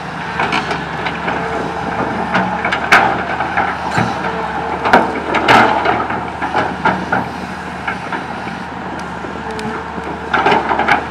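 Komatsu PC200 excavator's diesel engine running steadily while it handles tree branches, the wood cracking and snapping several times, most sharply about three and five seconds in.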